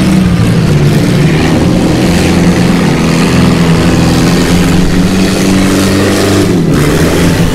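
Car engines running hard as the cars race in an autocross heat: a loud, steady engine drone with the pitch wandering slightly.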